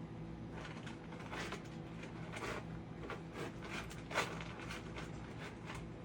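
A cat scratching and digging in litter with its paws: a run of quick, irregular scrapes, several a second, with the sharpest scrape about four seconds in.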